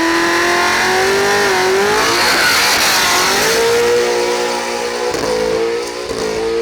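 Car engines at full throttle in a drag race. The engine note holds, then climbs again, with two short breaks in the latter half like quick gear shifts.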